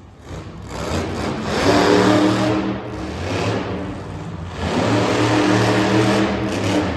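Monster truck engine revving hard. It builds over the first two seconds, eases off near the middle, then pulls hard again for the last two seconds.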